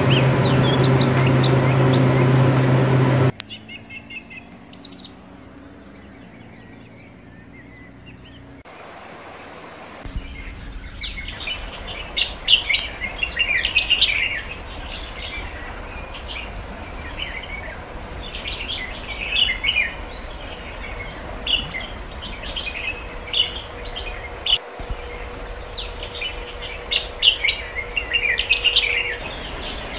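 Birds chirping and singing: many short overlapping calls over a low steady outdoor background. At the start, a steady machine hum cuts off suddenly about three seconds in, followed by a quiet stretch before the birds.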